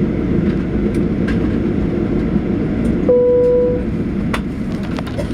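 Steady low rumble inside a Boeing 737-800 cabin on the ground, with a single electronic cabin chime about three seconds in, followed by scattered clicks.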